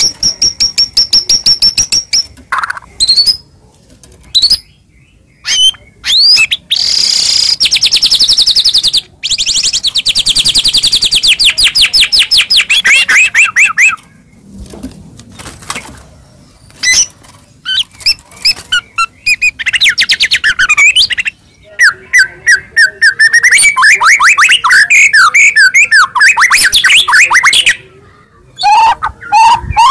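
White-rumped shama (murai batu) singing loudly in bouts of rapid, fast-repeated notes and trills, broken by short pauses.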